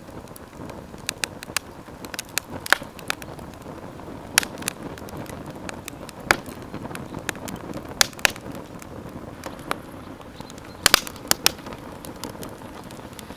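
Wood campfire crackling: irregular sharp pops of varying strength, with a quick cluster of loud pops near the end, over a steady low hiss of the burning fire.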